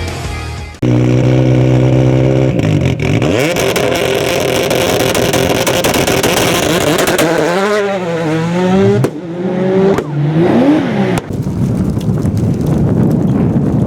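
Skoda Octavia WRC turbocharged rally car engine, starting just under a second in. It holds a steady note, then runs hard at full throttle with revs rising and falling through gear changes. Sharp cracks from the anti-lag system are heard, and a noisy rush comes near the end.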